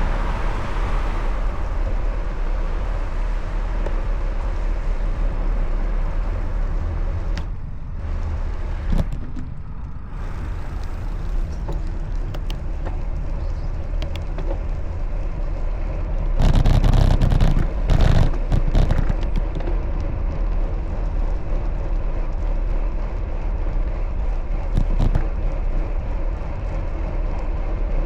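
Road traffic noise with a steady low rumble, heard from a moving bicycle, with a louder burst about 16 to 19 seconds in, likely a vehicle passing close.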